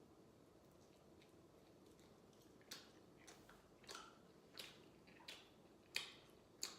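Faint, close-up chewing of pizza: from about three seconds in, a run of about seven short wet mouth clicks, roughly one every two-thirds of a second.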